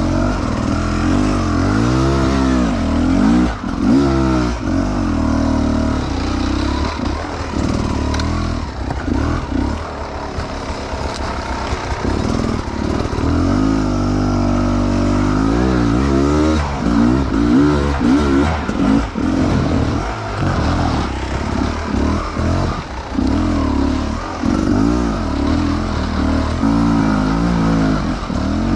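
Enduro dirt bike engine revving up and down over and over as it is ridden up a steep, rough trail, with a low chugging stretch about ten seconds in before it revs up again.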